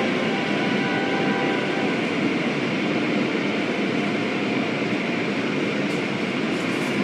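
Steady rushing noise of an automatic car wash, even and unbroken.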